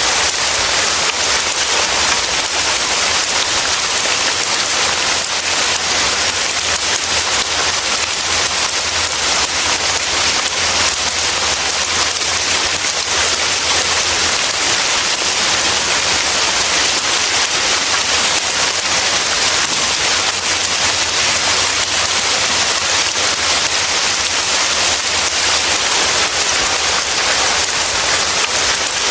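Steady rain falling and pattering on surfaces, a dense even hiss of many drops with no lulls.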